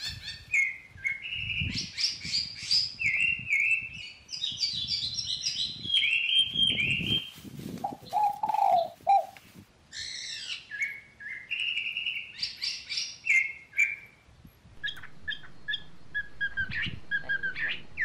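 Small birds chirping in quick runs of short, repeated high notes, with brief pauses between runs. Faint low rustling underneath from sticks and string being handled.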